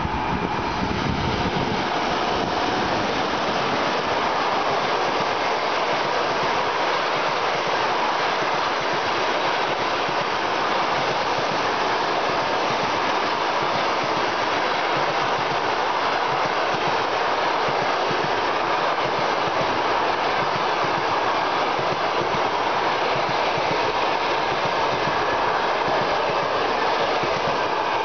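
Passenger train behind a ChS2 electric locomotive passing close by: a steady, loud noise of steel wheels running on the rails as the coaches roll past.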